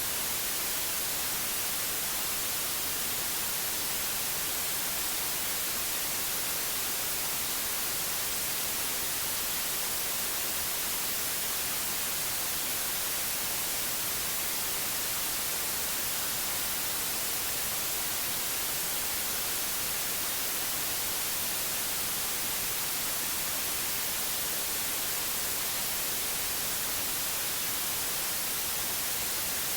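Steady white noise: an even, unchanging hiss, brighter in the highs, with no breaks or other sounds.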